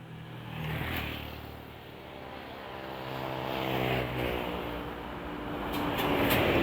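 Road traffic: motor vehicles passing one after another, the sound swelling and fading three times, about a second in, around four seconds and near the end, with an engine hum loudest around four seconds. A few sharp ticks come near the end.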